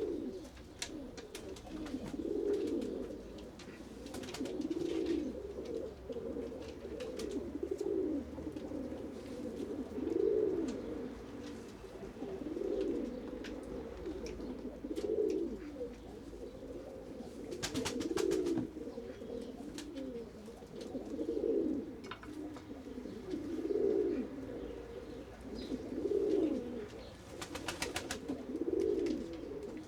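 Domestic pigeons cooing over and over, a low call about every two and a half seconds, with two short runs of rapid clicks, one just past the middle and one near the end.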